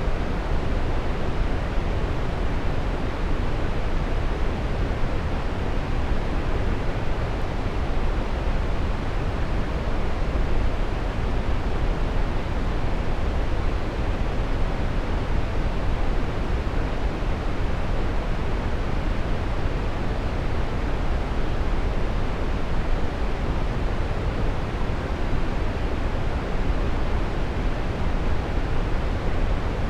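Waterfall: a steady, unbroken rush of falling water, strongest in the low end.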